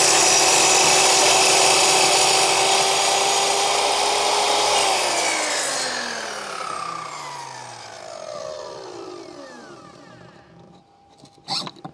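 Einhell TC-MS 2112 mitre saw running at full speed with a steady whine. About five seconds in it is switched off, and the blade winds down with a falling pitch until it stops. A short knock comes near the end.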